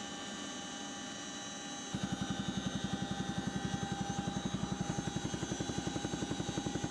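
CH-47 Chinook twin-rotor helicopter: a steady turbine whine made of many tones, joined about two seconds in by a fast, even low rotor thump at roughly ten beats a second.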